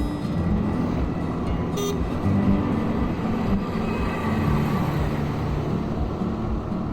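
Highway traffic and wind noise while riding along a busy road, with a short vehicle horn toot about two seconds in.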